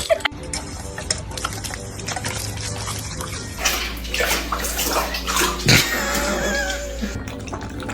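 A dog drinking noisily, water splashing and slurping in irregular strokes over a steady low hum.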